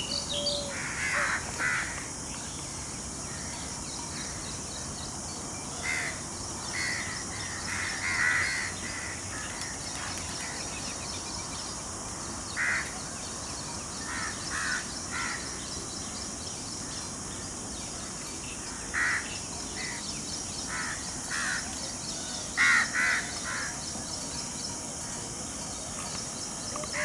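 Birds calling outdoors: short calls every few seconds, often in twos and threes, over a steady high-pitched hiss.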